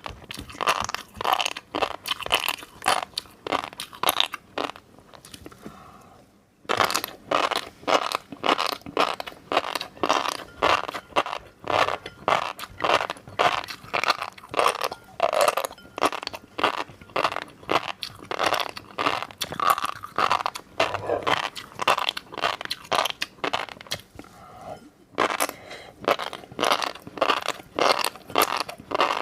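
Close-miked mouth sounds of fish roe being chewed: the beads burst in rapid crunchy pops, several a second. The pops stop for about two seconds around five seconds in, and briefly near the end.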